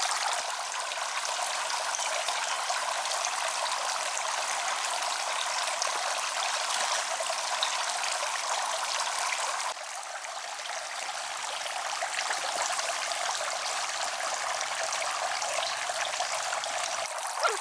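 Steady rush of running water, like a flowing stream, with an abrupt drop in level about ten seconds in.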